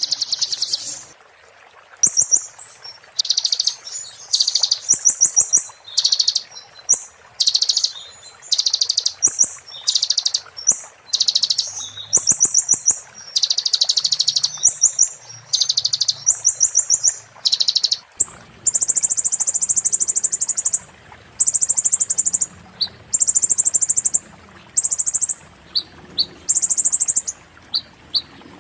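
A konin songbird singing fast, sharp, glassy trills in quick bursts of short high phrases, the 'muntah beling' style of song used as training material for other songbirds. From about two-thirds of the way through, the song changes to longer buzzy high notes repeated about once a second.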